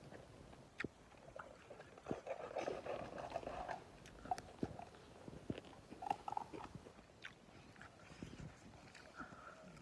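Faint close-up biting and chewing on a piece of grilled pork, with scattered small clicks and mouth smacks.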